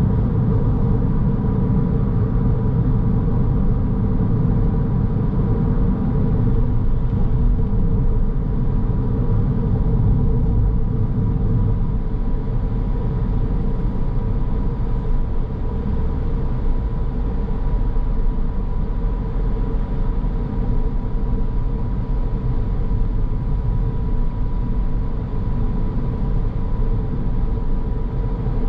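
Car driving along at steady speed: engine and tyre-on-road rumble, with a faint steady whine running through it.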